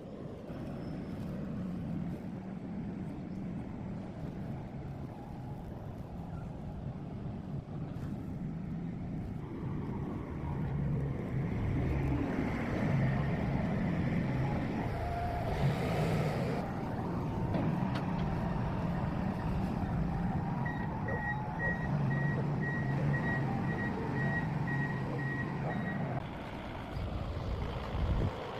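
A heavy vehicle's engine running, growing louder about a third of the way in, with a short hiss about halfway through. In the last third a reversing alarm beeps about twice a second for several seconds.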